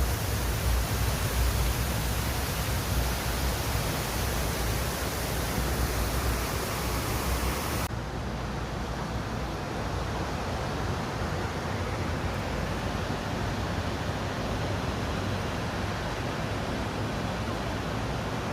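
Steady, loud rush of water pouring down an artificial waterfall. About eight seconds in the hiss thins out and the rush turns duller.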